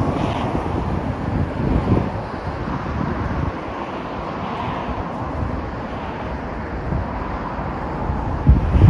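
Road traffic noise from the highway at night, a steady hiss of tyres and engines, with wind buffeting the microphone in low rumbling gusts; a stronger gust or passing vehicle swells near the end.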